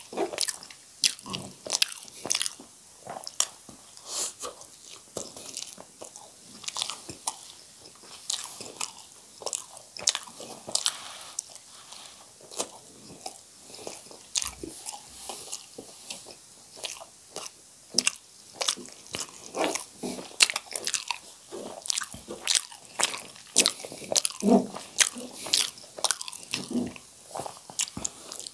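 Close-miked chewing and biting of spicy instant noodles and spice-coated boiled potatoes. The mouth sounds come as a steady, irregular run of short, sharp clicks.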